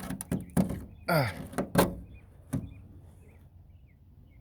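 Ford Ranger door handle being yanked again and again, five or six sharp clacks in about two and a half seconds, then still: the handle is busted and the latch will not release the door.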